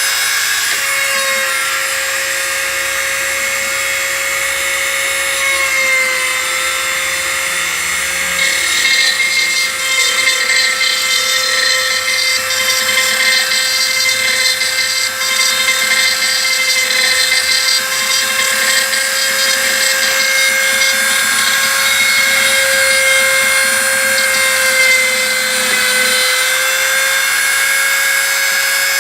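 Homemade CNC router's spindle whining steadily while its end mill cuts a 3 mm aluminium sheet dry, without coolant or lubrication. The cutting gets rougher and a little louder from about nine seconds in until shortly before the end.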